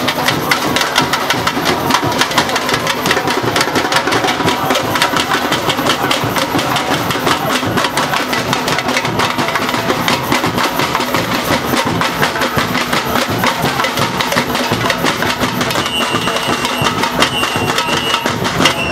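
Samba bateria drums playing a fast, dense, driving rhythm, with a steady whistle-like tone held at times.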